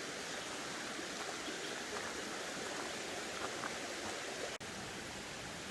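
Steady rushing of a running forest stream, broken by a momentary gap about four and a half seconds in.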